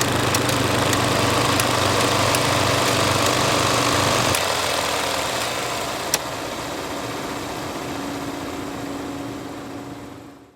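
Film projector running: a steady mechanical whir with a low hum and scattered sharp clicks. About four seconds in, the low hum drops away. The remaining whir carries on more quietly and fades out near the end.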